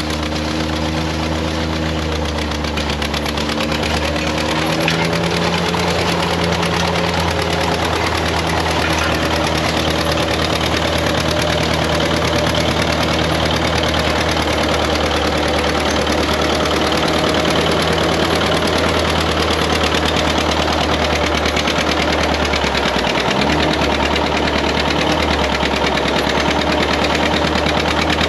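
John Deere 730 two-cylinder tractor engine running steadily under load while pulling a grain drill. Its note shifts about five seconds in and dips briefly before recovering near the end.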